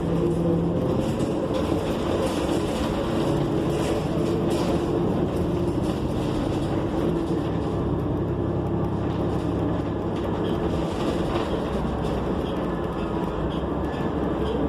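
Cummins Westport ISL G natural-gas engine and Allison transmission of a New Flyer XN40 transit bus running under way, heard from inside the bus, with steady engine tones that shift slightly in pitch and light rattles and clicks over the road noise.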